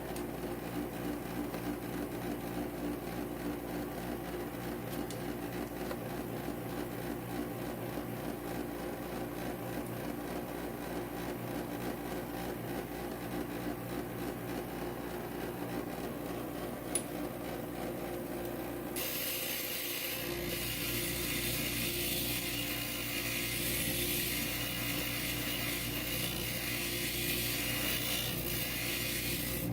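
Inland stained glass grinder running with a steady motor hum. About two-thirds of the way through, a high grinding hiss joins as glass is pressed against the spinning diamond bit.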